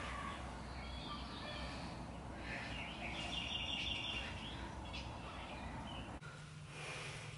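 Low steady background noise with a small bird chirping, including a short rapid trill of high notes about three seconds in. Near the end the background changes to a low steady hum.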